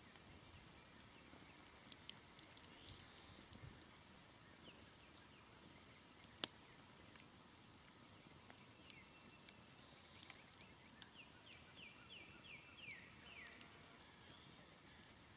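Smoldering campfire giving faint, scattered crackles and pops, with one sharper pop about halfway through. In the second half a bird calls a quick series of short, falling chirps.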